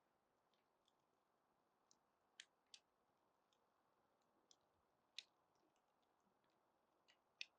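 Faint crackling of a burning wooden flame: scattered sharp pops and ticks, a few loud ones several seconds apart, over a soft hiss.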